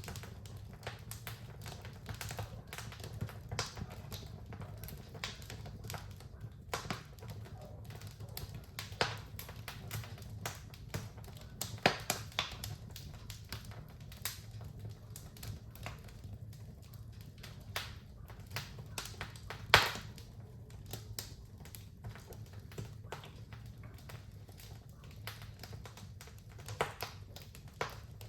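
Wood fire in a fireplace crackling, with irregular sharp pops over a steady low hum; the loudest pops come about twelve and twenty seconds in.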